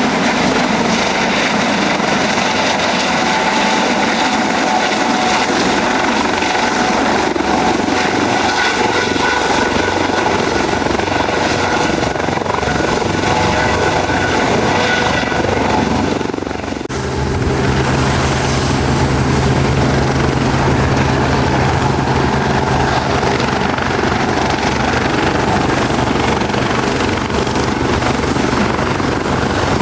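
Helicopter running at close range, rotor and engine noise held steady. About 17 seconds in the sound changes abruptly to a steadier run with a high whine and a low hum.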